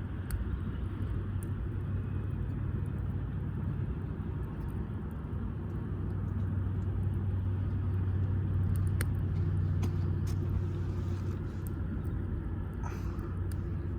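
A steady low rumble that swells for a few seconds in the middle, with a few scattered faint crackles from the wood fire.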